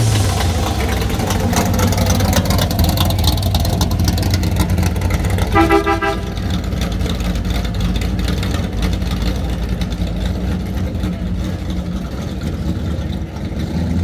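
A car engine running with a steady low rumble, and one short car-horn toot about six seconds in.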